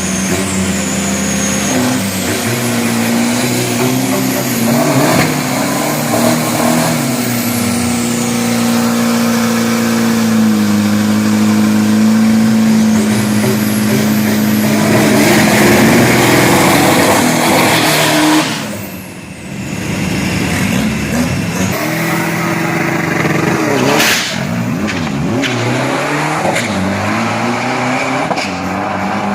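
Drag-race street truck's engine running and revving, its pitch holding and stepping up and down, with a brief drop in loudness about two-thirds of the way through.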